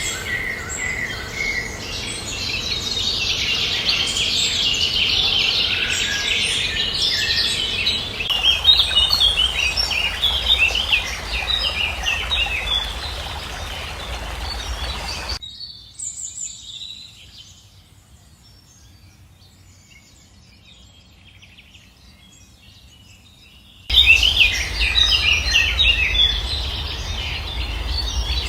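A chorus of songbirds chirping and calling rapidly over a steady low rumble. About halfway through the sound cuts to a much quieter, near-empty stretch for about eight seconds, then the busy birdsong returns abruptly.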